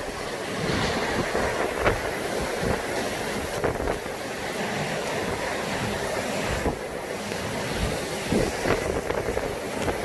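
Heavy rain pouring steadily, with wind buffeting the microphone in gusts.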